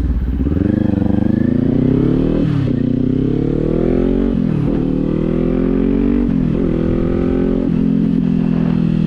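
Kawasaki Z400 parallel-twin motorcycle engine accelerating through the gears. The pitch climbs and drops sharply at each of four upshifts, then holds steady near the end, with wind noise rumbling on the microphone.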